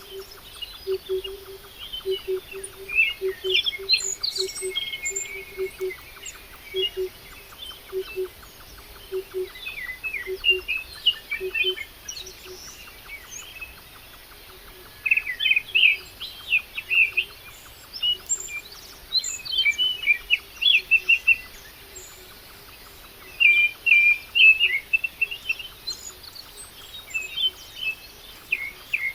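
Several small birds chirping and calling in quick, irregular bursts. A low note pulses repeatedly through the first twelve seconds or so, and a faint fast ticking runs underneath.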